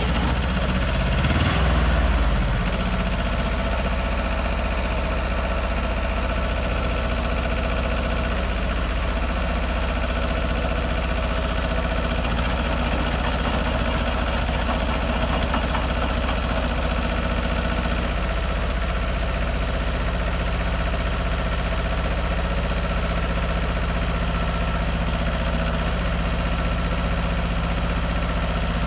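Small Yanmar compact tractor's diesel engine running steadily while driving a PTO rotary tiller through garden soil. It swells briefly and drops in pitch about two seconds in, then holds an even note.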